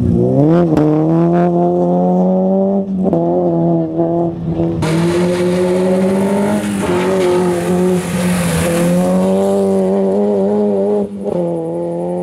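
Rally car engine revving up and pulling away hard, held at high revs with several brief dips in pitch as it changes gear. A broad hiss joins about five seconds in and fades out about five seconds later.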